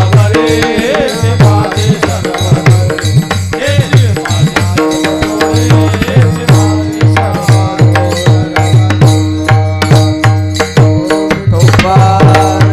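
Instrumental interlude of devotional kirtan music: a hand drum playing fast, steady strokes under long held melodic notes, with bright metallic clicks throughout.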